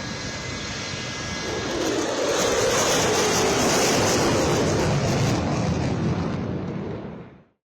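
Fighter jet engine noise: a loud jet rush that swells about two seconds in, as if passing close, then fades quickly to silence near the end.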